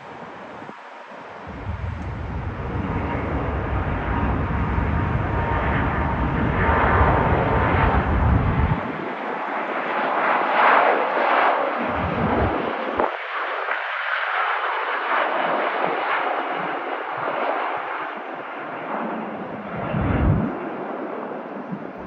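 Jet airliner's engines at takeoff thrust: a loud, rushing roar that swells about two seconds in, peaks around the middle, then eases slightly as the plane climbs away.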